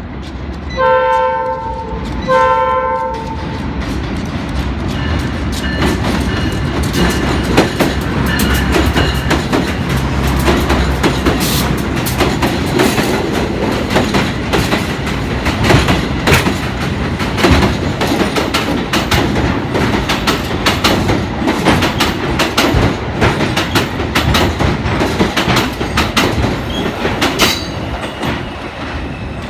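New York City subway train giving two short horn blasts, then running through the station on the elevated steel structure, with wheels clacking over rail joints for most of the rest of the time.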